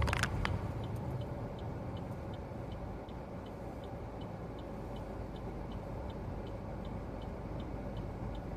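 Car turn-signal indicator ticking evenly, about three ticks a second, over the steady low rumble of the car's cabin while driving. A few sharp clicks sound right at the start.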